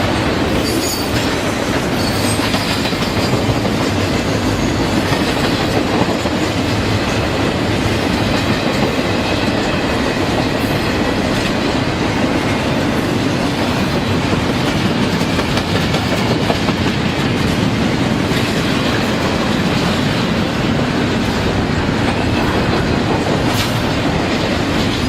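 A train rolling past at steady speed: the continuous rumble of steel wheels on the rails, with the clickety-clack of wheels crossing rail joints.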